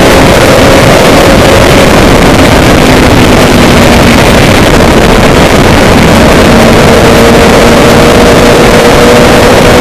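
A vehicle running steadily: a loud, even rushing noise with a low engine hum under it that drifts slightly in pitch.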